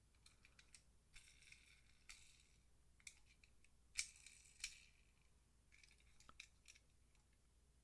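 Faint handling noises: small clicks and light scraping as die-cast toy cars are picked up and turned over, with the sharpest click about four seconds in.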